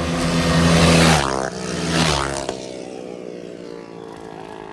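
Small single-cylinder minibike engines going past at speed: two loud peaks, each with the pitch dropping as the bike passes, then the sound fading away.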